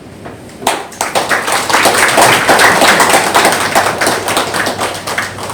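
Audience applauding, starting about a second in and slowly dying down.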